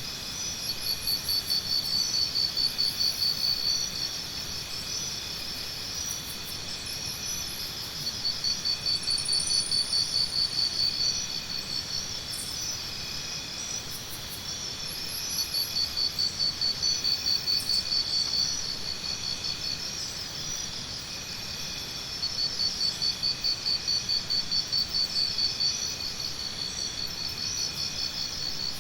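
Jungle morning ambience dominated by a steady insect chorus. One insect calls in loud pulsing bouts of about three seconds that come back every six or seven seconds.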